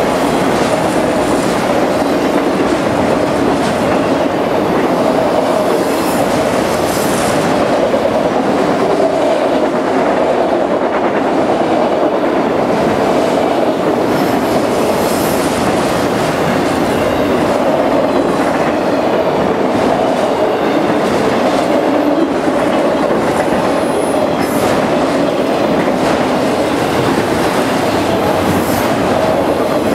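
Autorack freight cars of a long freight train rolling past at speed, steel wheels running steadily on the rails.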